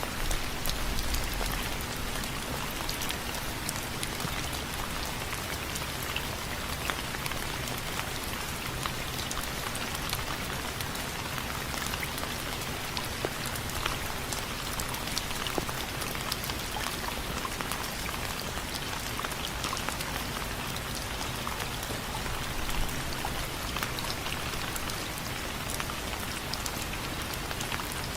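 Steady rain on window frames, a continuous hiss of rainfall with many small drops ticking on the frame. There is a brief low rumble about a second in.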